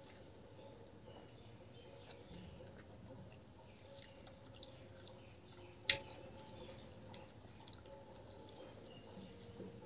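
Faint wet clicks and smacks of a person chewing a mouthful of rice and curry, mixed with soft squishes of fingers working rice on the plate. One sharper click about six seconds in.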